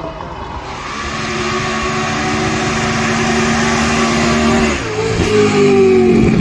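A competition car's engine at high revs, getting louder as it approaches. About five seconds in its pitch falls as it draws level and passes, and it is loudest there.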